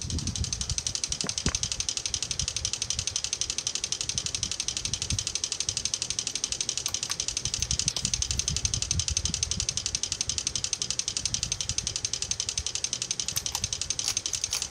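SMC U42 ceiling fan with wood blades running, its motor giving a low rumble under a rapid, even ticking. The sound steps up in level right at the start, then stays steady.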